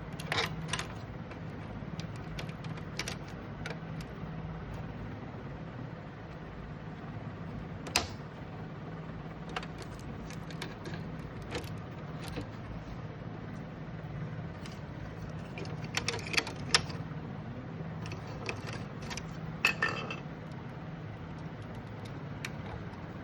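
Scattered sharp clicks and light taps of plastic and metal parts being handled during an inkjet printer repair, over a steady low hum; the loudest clicks come about 8 seconds in and again around 16 to 20 seconds.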